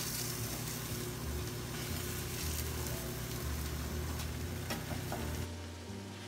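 Food frying in a hot pan, a steady dense sizzle that cuts off suddenly about five seconds in.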